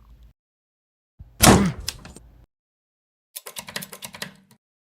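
A door bangs shut about a second and a half in, with a falling sweep as it swings. Near the end comes a quick run of about ten sharp clicks.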